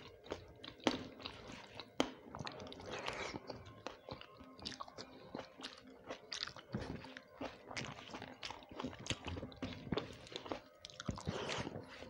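Close-miked chewing and crunching of rice and crisp fried vegetables, with many sharp, irregular clicks of biting.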